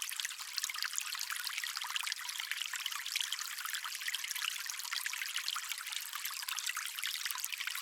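Stream water splashing and trickling steadily: a bright, even rush of many small splashes, with little low rumble.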